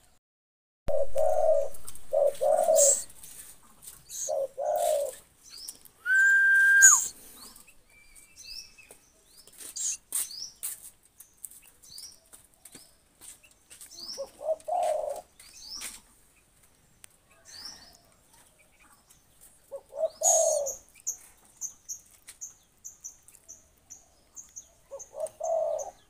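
Bird calls: scattered short high chirps, one loud held whistled note that drops at its end about six seconds in, and a run of rapid high chirps near the end, mixed with several short noisy bursts.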